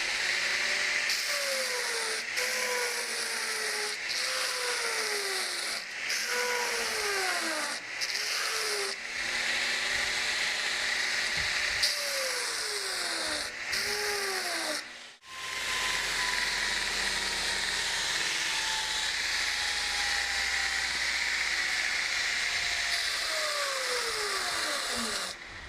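Burr King belt grinder profiling a steel knife blank: a steady hissing grind with a tone that drops in pitch every second or two, then in the second half one long, slowly falling tone.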